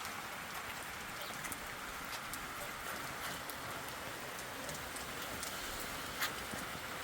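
Steady rain falling, a continuous patter with scattered individual drops ticking on nearby surfaces.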